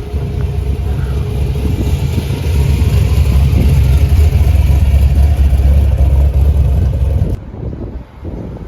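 A car engine running loud and low as the car drives past, growing louder about two seconds in, then cutting off abruptly near the end.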